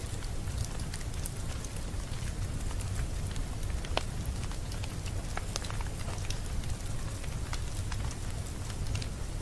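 Wood fire crackling in a fireplace: scattered sharp pops and snaps over a steady low rumble, with one louder pop about four seconds in.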